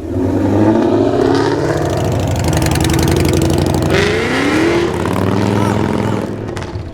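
A car engine running loud and revving as it drives past, with its pitch rising and falling, climbing about four seconds in.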